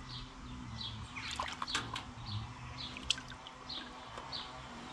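A small bird repeating a short, high chirp at a steady pace, over the trickle of a small stream, with a few brief splashes and knocks in the middle, about a second and a half and three seconds in.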